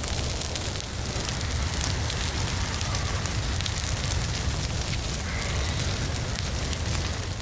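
A forest fire burning: dense crackling and popping of burning wood over a steady low rumble of the flames.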